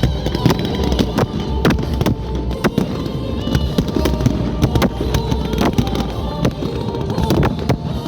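Fireworks going off in a barrage of sharp bangs and crackles, several a second, with music playing over loudspeakers underneath.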